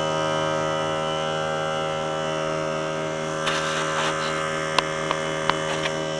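Small portable electric air compressor running steadily with a hum, pumping up its tank. Several sharp clicks and a brief rattle come in the second half.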